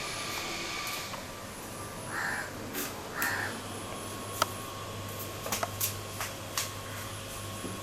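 Two harsh bird calls about a second apart, followed by several sharp clicks, over steady background noise.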